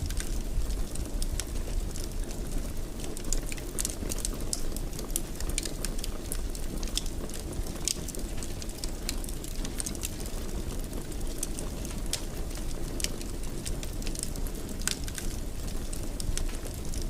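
Wood fire burning in a fireplace: a steady low rumble of flames with frequent, irregular sharp crackles and pops of the burning wood.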